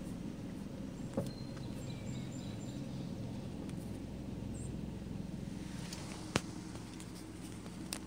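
Steady low engine rumble, as of a vehicle idling, with a few faint high chirps and one sharp click about six seconds in.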